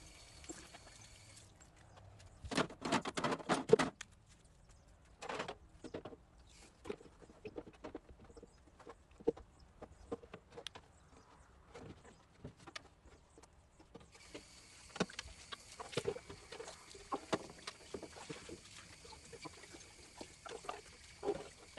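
Plastic refrigerator shelves and drawers being handled, with scattered knocks and clicks and a dense burst of clatter about three seconds in.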